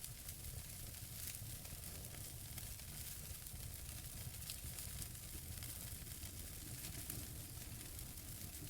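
Wood fire burning in a fireplace: a steady hiss with irregular small crackles and pops from the burning logs.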